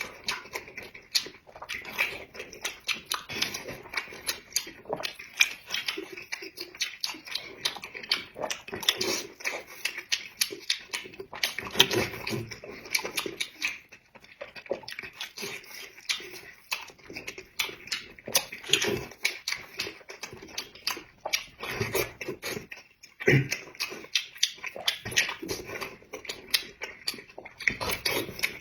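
Close-miked eating sounds: chewing and lip-smacking as a mouthful of food is eaten, a continuous irregular stream of small wet clicks and smacks.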